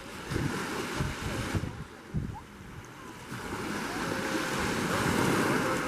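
Sea waves washing ashore, with wind buffeting the microphone in gusts; the surf grows louder about halfway through.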